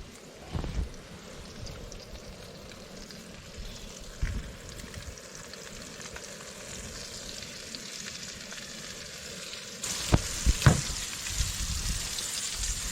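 Trout frying in a pan, a steady sizzle that gets louder about ten seconds in, with a couple of short knocks soon after.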